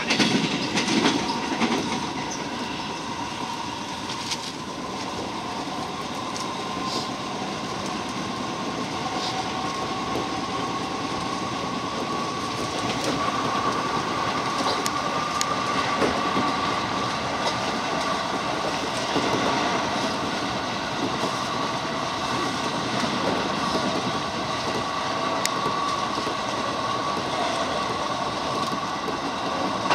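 JR 205-series commuter train running at speed, heard from inside the passenger car: a steady rumble of wheels on rail with occasional rail-joint clicks. A thin high tone rises slightly about ten seconds in and then holds.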